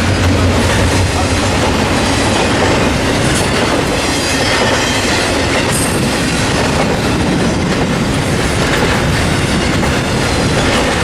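A long train rolling past at close range: the steady, loud noise of wheels running on the rails. A low rumble fades out in the first second or two.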